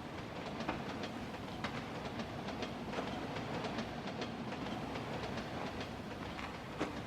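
Subway train rumbling steadily through a tunnel, with irregular clattering clicks over the rumble.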